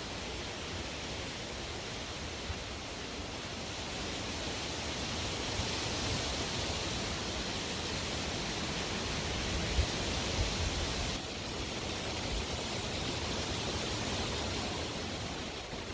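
Strong wind blowing, a steady rush that swells toward the middle with a few low thumps. It then drops suddenly about eleven seconds in before picking up again.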